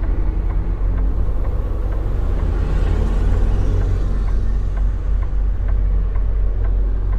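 Semi truck's diesel engine running, a steady low rumble heard inside the cab.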